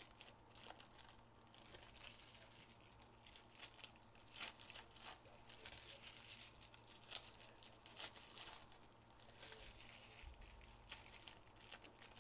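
Faint crinkling and tearing of trading-card pack wrappers being opened by hand, a string of small crackles and rustles.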